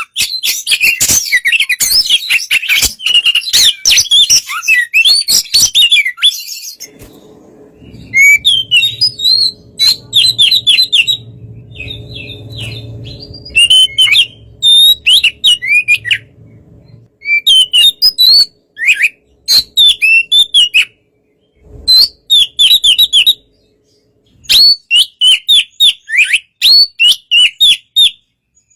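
Oriental magpie-robin (kacer) singing loudly: a dense, fast jumble of high notes for the first six seconds or so, then runs of quick down-slurred whistles repeated in short bursts with brief pauses between them.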